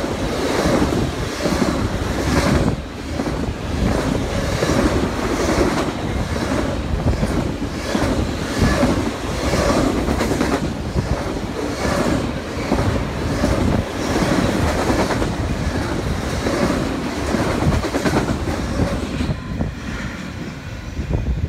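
A passenger train passing at speed, its wheels clattering in a regular clickety-clack over the rail joints, with a steady rumble and rush of the cars going by. The sound eases off near the end as the last car goes past.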